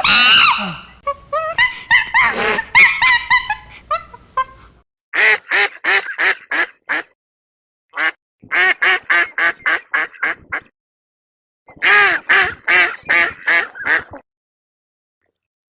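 Ducks quacking: a jumble of calls over the first few seconds, then three quick runs of quacks at about four a second.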